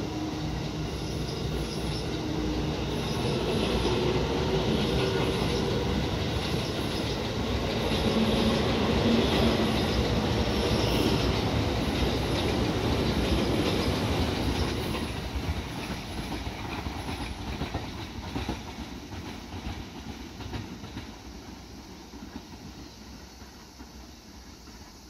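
JR West electric commuter train pulling out along the platform, its motor whine rising in pitch at first and its wheels clacking over the rail joints. The sound builds to a peak about ten seconds in, then fades steadily as the last cars draw away.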